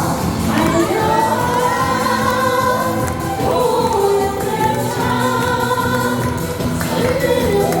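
Amplified live singing over a loud backing track: a Korean trot song performed on stage.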